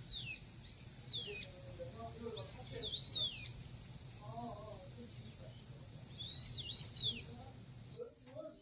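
Nature soundscape: a bird gives repeated arching whistled calls, a few seconds apart, over a steady high-pitched insect drone.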